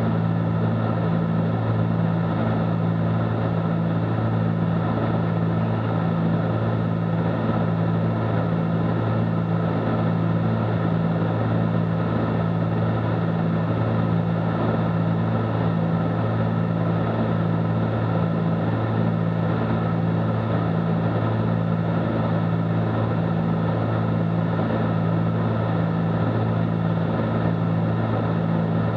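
Steady cockpit drone of a Cessna 310Q's twin piston engines and propellers in flight, a constant low hum with no change in power.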